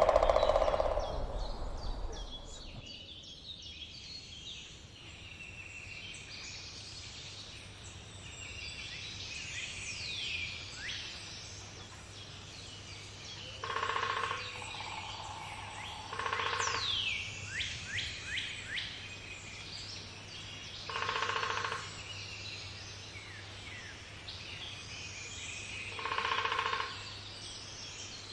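Woodpecker drumming in short, rapid rolls of about a second each: a louder one at the start, then four more spaced several seconds apart. Small birds chirp in the background with quick falling notes.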